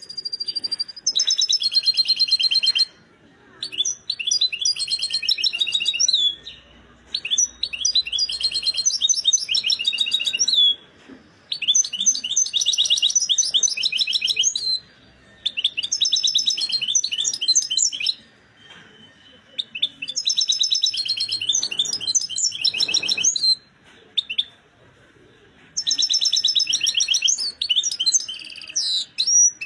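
European goldfinch (chardonneret) singing in full, excited form: about seven phrases of rapid, high twittering song, each a few seconds long, with short pauses between them.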